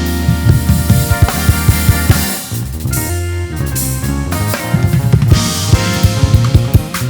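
Live band playing an instrumental number: a drum kit leads with busy kick and snare hits over electric bass and keyboard chords. The band thins out briefly about two and a half seconds in, then picks back up.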